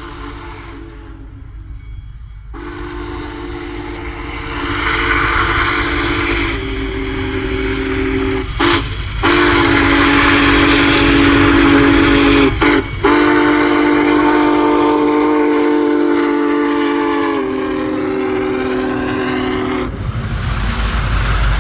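Steam locomotive's whistle sounding long blasts, a chord of several tones at once, broken off briefly a few times and stopping shortly before the end, over the hiss of escaping steam and a low rumble from the moving train.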